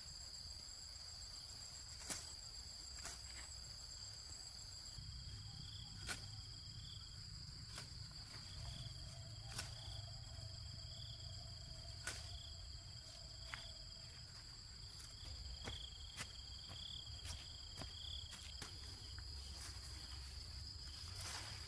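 Insects chirring in a steady, high, unbroken tone, with a fainter pulsing chirp in the middle and occasional sharp knocks every few seconds.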